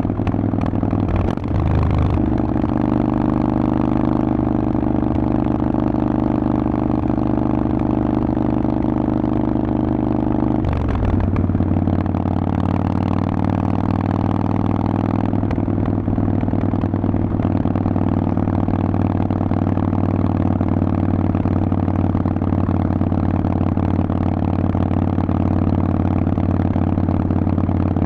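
Harley-Davidson Forty-Eight's air-cooled 1200 cc V-twin running through a Vance & Hines exhaust while riding at a steady pitch. The engine note shifts briefly in the first couple of seconds, then drops to a lower steady pitch about eleven seconds in.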